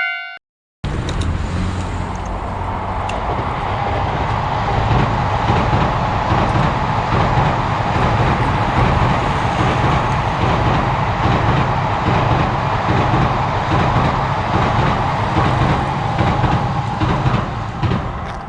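A train running past on the rails: a loud, steady rumble and rail noise that starts abruptly about a second in, swells over the next few seconds and eases slightly near the end. It is preceded by the last strike of a ringing chime and a brief gap.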